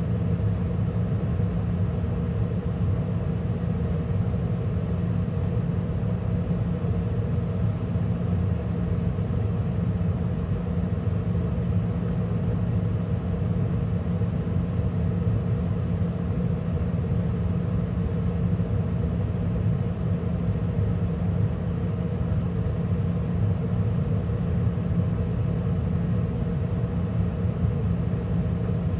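2013 Carrier gas furnace running steadily mid-cycle, with burners lit and the inducer and circulating blower running: an even rumble with a steady low hum.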